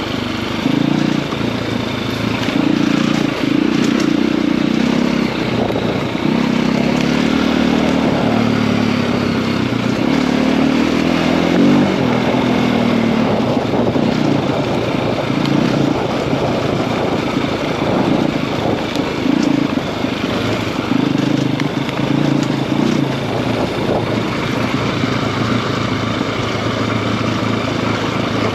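KTM EXC-F enduro motorcycle's single-cylinder four-stroke engine, bored out to 280 cc, heard from on board while riding. The engine note rises and falls again and again as the throttle is opened and closed.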